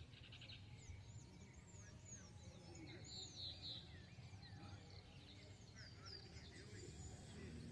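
Faint outdoor ambience with many short, high bird chirps repeating throughout, and a brief buzzy trill about three seconds in, over a low steady rumble.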